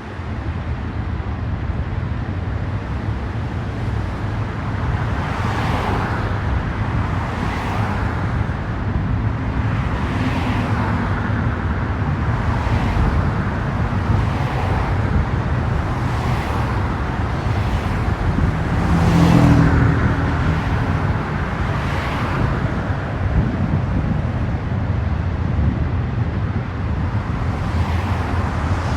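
Freight train's intermodal cars rolling past: a steady rumble with a sharp wheel clack recurring about every two seconds. It swells louder around twenty seconds in.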